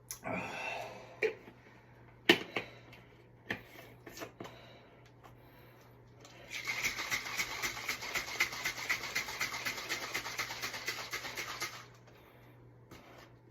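A protein drink being mixed: about five seconds of fast, even, rhythmic scraping and rattling, starting about six seconds in and stopping abruptly, after scattered clicks and knocks of handling the container.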